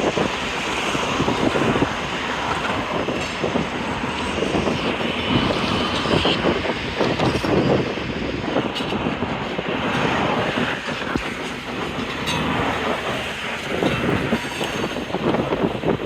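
Freight train rolling past, its cars rattling and wheels clattering on the rails, with a brief high wheel squeal about six seconds in.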